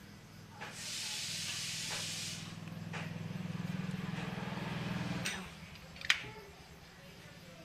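A loud hiss lasting about two seconds over a low steady hum. The hum cuts off about five seconds in, and a sharp click follows.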